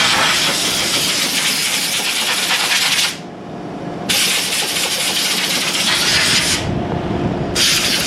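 Compressed-air blow gun blasting air in three long hissing bursts with short breaks, blowing dust out of an engine air filter.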